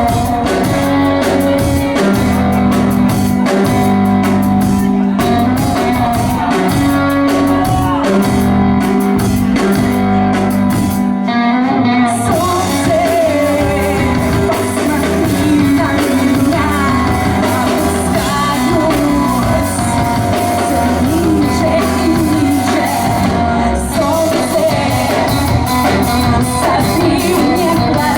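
A rock band playing live in a club: electric guitars, bass and drums, with a singer's voice. About eleven seconds in, the low end drops out briefly before the full band comes back in with the vocals.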